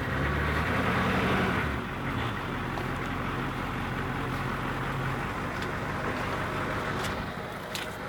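A vehicle's engine running steadily, louder and under more load for about the first two seconds, then settling to an even drone. A few light clicks come near the end.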